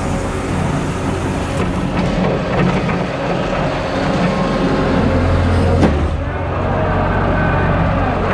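Skid steer loader's engine running steadily with a low drone while the machine works. A single sharp clank comes a little before six seconds in, after which the engine note shifts.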